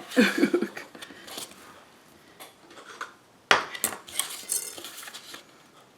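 Bone folder scraping along the groove of a scoring board as card stock is scored, with a sharp click about three and a half seconds in followed by more scraping and paper handling.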